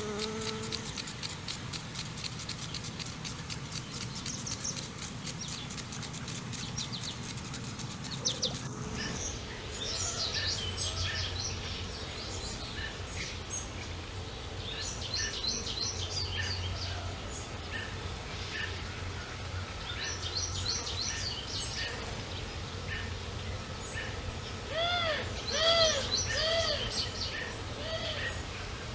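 Songbirds chirping and calling, many short notes, with a run of repeated arching calls near the end as the loudest part. For the first eight seconds or so a low buzz and a fast, even ticking run underneath before the birdsong takes over.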